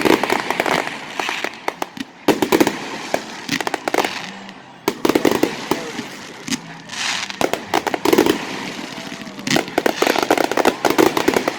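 Aerial fireworks exploding in rapid volleys of bangs and crackling, coming in dense clusters every second or two.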